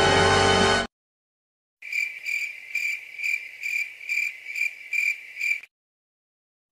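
The held last chord of a 'dun dun dunnn' dramatic music sting cuts off about a second in. A crickets sound effect follows: steady high chirps about twice a second for roughly four seconds, then it stops.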